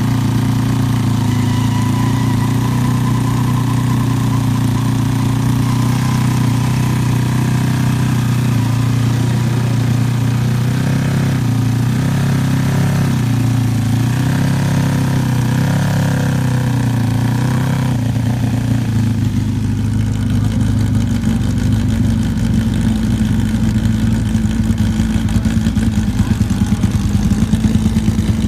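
Superbike engines idling steadily, the note rising and falling a few times in the middle as the throttle is blipped. About two-thirds of the way through the sound turns rougher and slowly grows louder.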